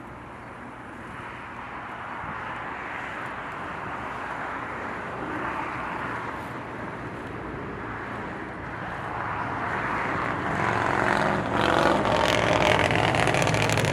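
Jet airliner engines, a steady rushing noise that grows louder as the aircraft nears, with a whining tone joining in the last few seconds.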